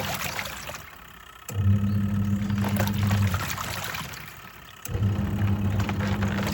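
Twin-tub washing machine on its wash cycle. The motor hums in runs of about two seconds with short pauses between as the pulsator reverses, over water sloshing in the tub.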